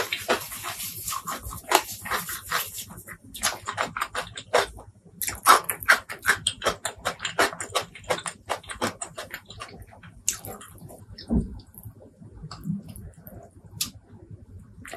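Close-miked wet chewing of a mouthful of food: rapid sticky smacks and clicks, dense for the first several seconds and then sparser, with a single low thud about eleven seconds in.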